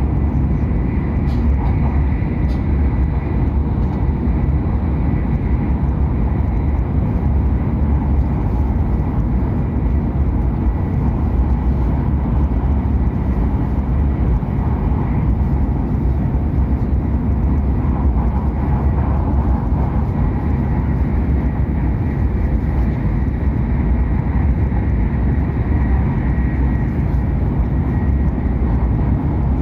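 Hokuriku Shinkansen train running at speed: a steady, deep rumble of running noise with a faint, even high whine.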